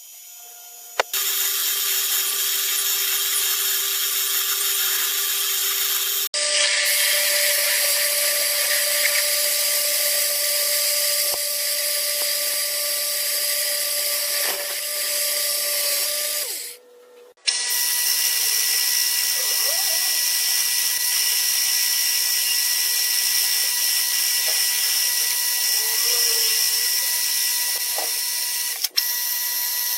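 Power machine tools running and cutting, a steady whine over a hiss. It comes in three separate stretches, each with its own pitch, joined by abrupt cuts.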